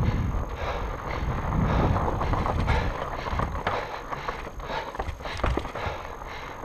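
Full-suspension fat bike rolling down rough trail: tyres rumbling over the ground, with irregular rattles and knocks from the bike as it hits bumps, and wind on the microphone. The rumble is loudest at first and eases off after about two seconds.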